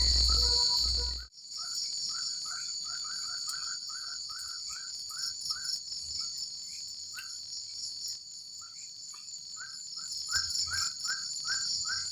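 Forest evening chorus: a steady high-pitched insect drone with runs of short repeated chirping calls, about three to four a second, in two runs separated by a pause of a few seconds. A low rumble in the first second cuts off suddenly.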